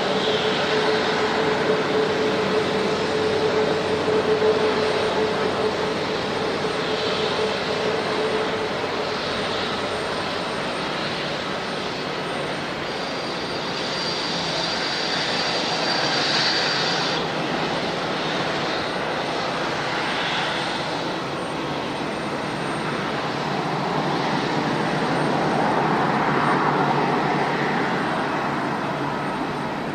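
Airliner engines running with a steady rushing noise. A humming tone near the start fades out after about nine seconds, and a thin high whine is heard briefly in the middle.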